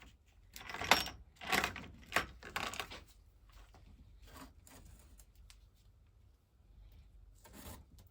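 Hand grease gun being worked to push grease through the grease cups of an old stationary-engine water pump: several short, noisy strokes in quick succession, then quieter handling and one more stroke near the end.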